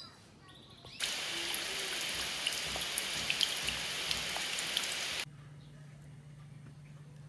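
Rain falling into a puddle and onto wet ground, a dense hiss full of small drop splashes. It starts abruptly about a second in and cuts off suddenly about four seconds later.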